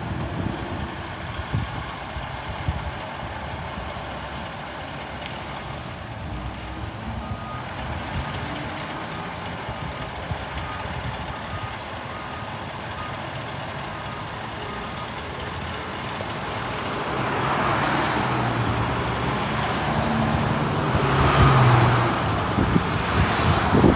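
Fire engine's diesel engine running, with a train of short, evenly spaced warning beeps through the middle. In the last third the engine grows louder as the truck pulls away under power, loudest a few seconds before the end.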